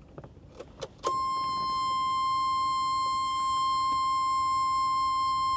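A few faint clicks, then about a second in a steady, high-pitched electronic beep starts and holds on one unchanging pitch.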